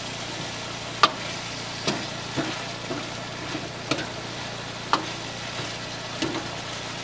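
Chicken stir-frying in a wok, a steady sizzle with the metal ladle clanking against the pan about six times at uneven intervals, the loudest about a second in.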